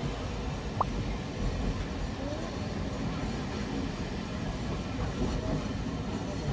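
Sagano Romantic Train running: a steady rumble and rush of the wheels on the rails, heard from inside its open-sided carriage. A short thin squeak sounds about a second in.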